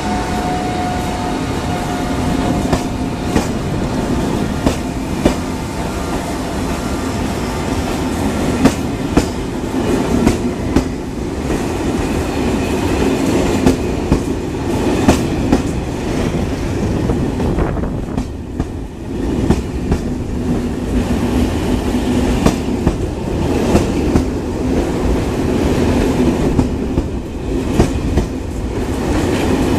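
Corail passenger coaches rolling slowly past on the track: a steady rumble of wheels on rail, with sharp wheel clicks over rail joints about once a second.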